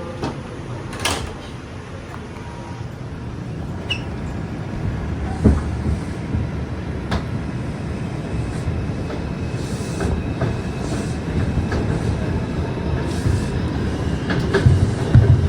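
R142 subway train running on the rails as it picks up speed between stations. A steady rumble slowly builds, broken by several sharp clacks over the rail joints.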